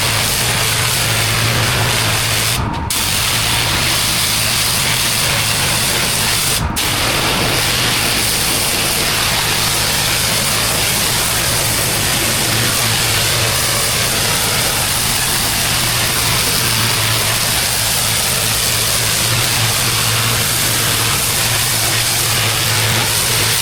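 Pressure washer running: the engine hums steadily under the hiss of a high-pressure water jet on block paving. The spray drops out for a moment twice, about three and seven seconds in.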